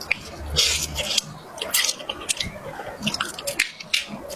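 Close-miked eating: wet chewing and mouth smacking, with irregular clicks and squelches as food is chewed.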